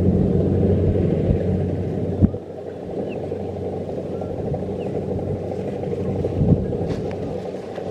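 Kubota DC-70 Plus rice combine harvester running with a steady diesel engine hum. A sharp knock comes a little over two seconds in, after which the machine sounds somewhat quieter, with another smaller knock near the end.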